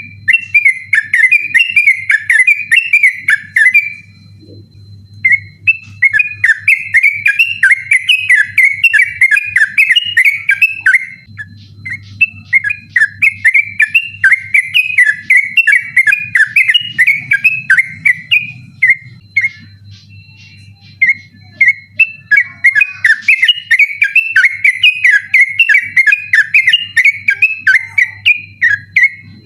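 Yellow-vented bulbul (trucukan) singing a rapid, insistent 'ropel' song: long strings of quick warbled notes, broken by a few short pauses, over a faint steady hum.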